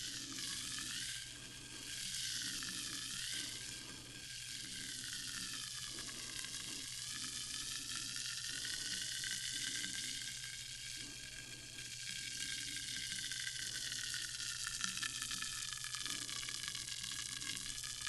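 Sparkling water fizzing: a steady hiss of carbonation bubbles bursting.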